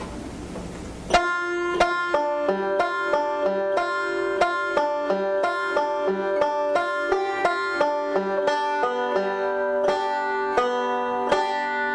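Five-string banjo picked with the thumb and fingers in quick, even rolls and pinches, starting about a second in.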